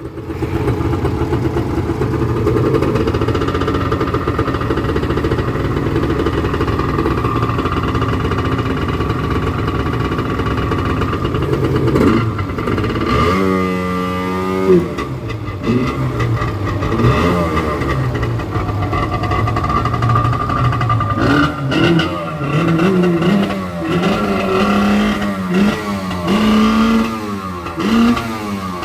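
Yamaha Wave Venture jet ski's two-stroke engine, freshly started, running steadily at first, then revved up and down: one rise and fall in pitch about halfway through, and a run of quick revs in the last third.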